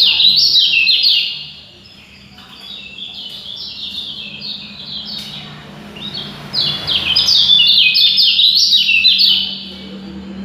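Songbird singing a fast, tightly packed stream of short high notes in loud bursts, one at the start and another from about six to nine and a half seconds in, with softer song in between.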